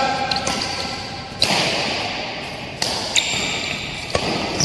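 Badminton rally: sharp racket-on-shuttlecock hits about every second and a half, each with a brief high ping.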